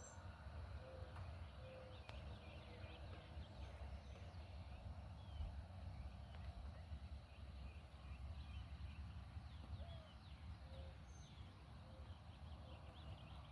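Faint outdoor ambience: a steady low wind rumble with many small bird chirps and a few short, low calls scattered through it.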